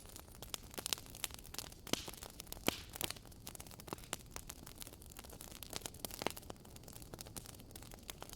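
Wood fire crackling: irregular sharp pops and snaps over a low hiss, a strong pop a little under three seconds in.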